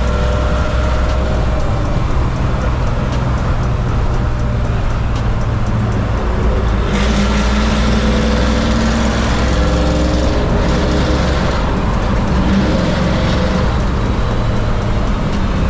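LS-swapped 1968 GMC Suburban's V8 running through its new Black Widow exhaust while driving, the engine note shifting in pitch. A rush of higher noise joins about seven seconds in.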